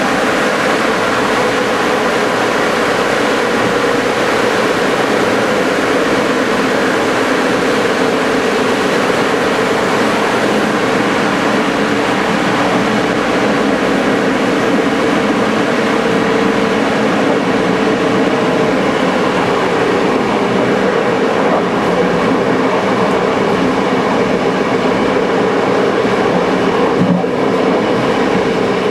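Passenger train running along the line: a steady rolling noise of wheels on rails, with a constant hum under it.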